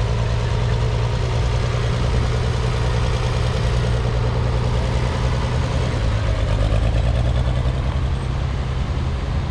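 Engine running steadily at a low, even hum, with no change in speed.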